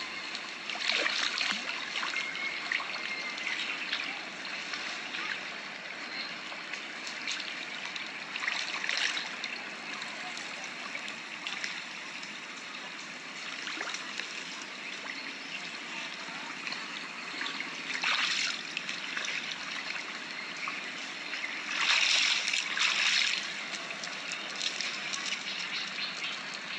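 Water trickling and flowing steadily, with several short louder splashes; the longest and loudest comes near the end.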